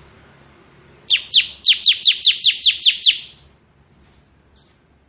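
Bar-winged prinia (ciblek) singing a rapid run of about ten sharp down-slurred notes, about five a second, starting about a second in and fading out after about two seconds. This is the fast, continuous 'ngebren' song style prized by bird keepers.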